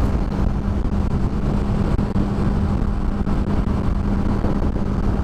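Steady wind rush on the helmet camera's microphone, with the steady drone of a 2007 Honda CBR600RR's inline-four engine cruising at constant highway speed.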